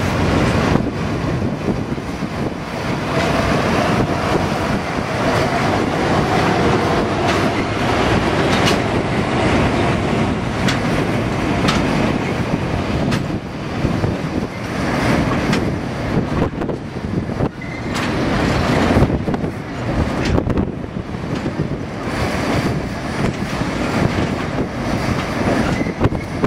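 Passenger coaches rolling past at close range: a steady rumble of steel wheels on rail with repeated clacks as the trucks cross rail joints, and a faint wheel squeal on the curve for a few seconds about three seconds in.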